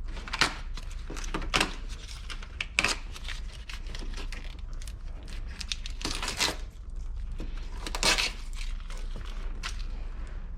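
Irregular rustling, scraping and small knocks of hands working among a car's interior trim, carpet and wiring, with a few louder scrapes near the start, around six seconds and around eight seconds.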